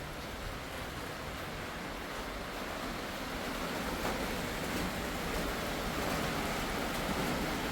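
Strong wind blowing, a steady rushing noise that swells a little louder about four seconds in.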